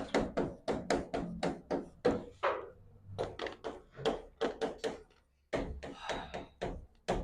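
A quick, uneven run of light taps, about four a second, with a short pause about five seconds in.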